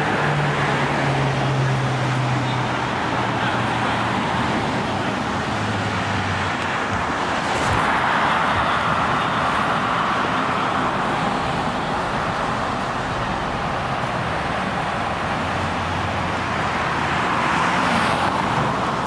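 Street traffic: a steady wash of road noise from passing cars, with a low engine hum early on and a car swelling past about eight seconds in and again near the end.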